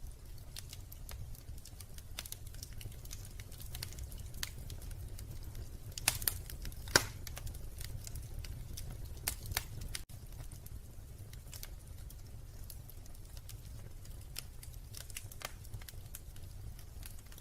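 Wood fire crackling in a fireplace: scattered pops and snaps over a low, steady rumble, with a few louder pops in the middle.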